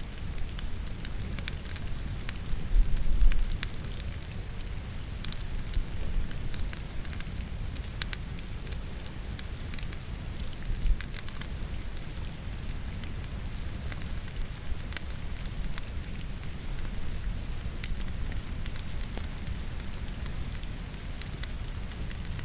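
Wood fire crackling and popping in a fireplace over steady rain, with a low rumble underneath. A louder dull thump comes about three seconds in.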